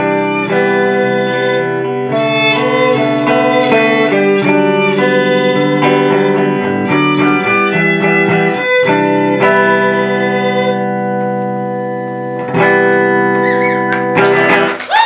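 Live band playing an instrumental passage led by guitars, with held chords and changing notes.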